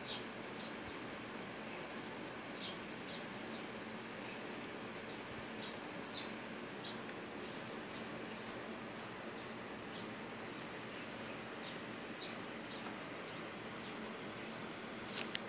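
Small birds chirping outside, short high chirps repeating about every half second over a steady background hiss. Two sharp clicks near the end.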